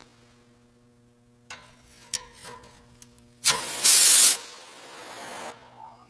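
A loud hiss of a spraying air tool, running for about two seconds past the middle and strongest in its first half, after a few short clicks, over a steady low machine hum.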